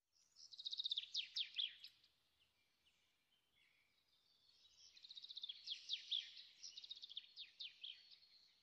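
A songbird singing two phrases of rapid high trills and quick downward-sweeping notes, the first about half a second in and a longer one from about four and a half seconds.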